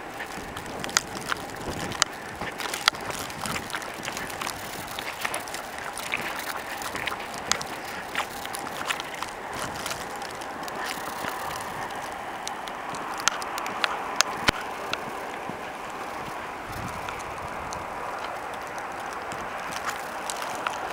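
Blizzard wind blowing steadily, with frequent sharp ticks and crackles throughout.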